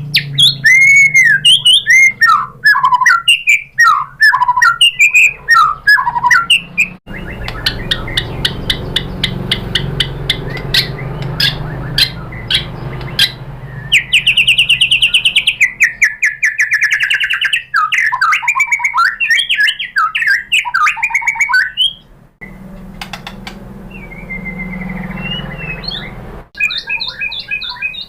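White-rumped shama singing a long, varied song: whistled notes and glides, a long run of rapid clicking notes, then a fast trill about halfway through, with short pauses between phrases. A faint steady low hum runs underneath.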